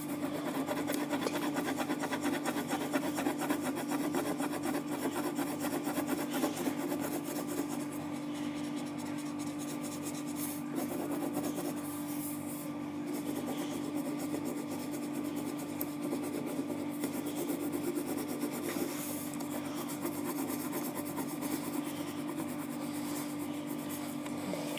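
Coloring in a drawing on paper by hand: a continuous scratchy rubbing of the drawing tool in quick back-and-forth strokes. A steady low hum runs underneath.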